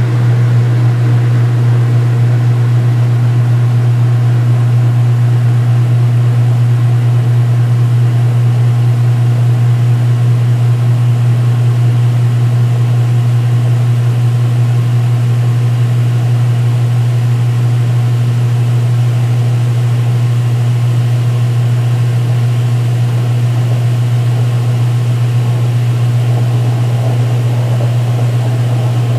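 2016 Speed Queen top-load washer in its spin-drain stage, the drum spinning and the pump draining water, giving a loud, steady low hum.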